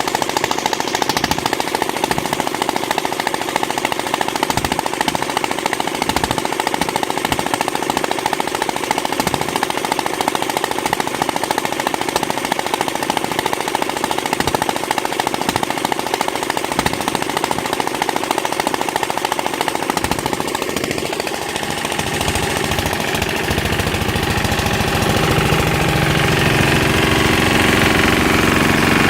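Malkotsi 15 hp diesel engine running with a rapid, steady knocking beat. About two-thirds of the way through its sound changes and grows louder, with a fuller, more even note.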